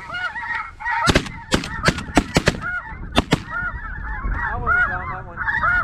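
Snow geese honking steadily while a volley of about eight shotgun shots goes off in quick succession, starting about a second in and ending about three and a half seconds in.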